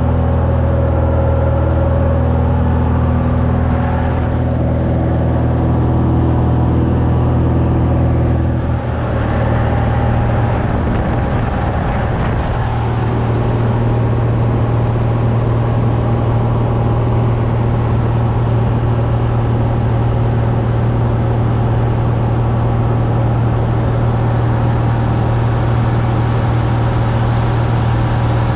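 Cessna 172's freshly overhauled piston engine and propeller droning steadily in flight during engine break-in. About nine seconds in, the drone shifts and settles at a different pitch.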